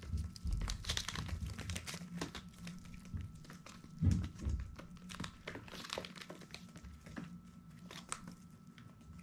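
Crinkling, scratching rustles from baby chicks moving about and pecking on their bedding, many short scratches over a low rumble.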